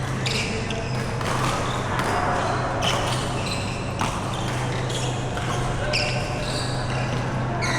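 Indoor badminton doubles play: repeated racket strikes on the shuttlecock and short high shoe squeaks on the court floor, over a steady low hum.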